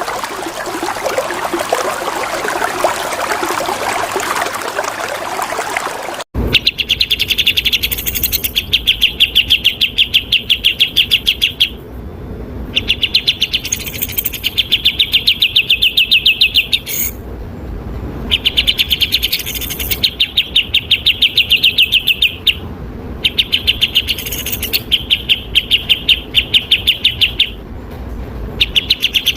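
Running water for the first six seconds, then an abrupt switch to bulbul song: fast, evenly spaced trilled notes in phrases a few seconds long, repeated with short pauses between them.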